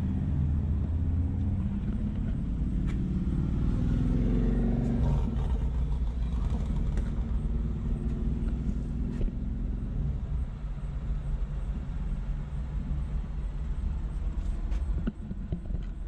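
Motor vehicle engine rumble, with an engine note rising in pitch about four to five seconds in as a vehicle accelerates.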